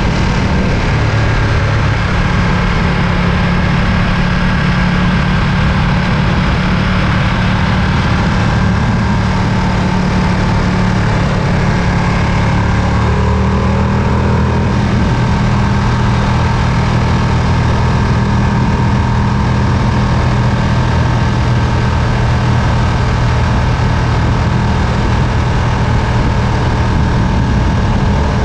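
Ducati Panigale V2's 955 cc L-twin engine running at fairly steady revs, with small shifts in pitch about a second in and again about halfway through.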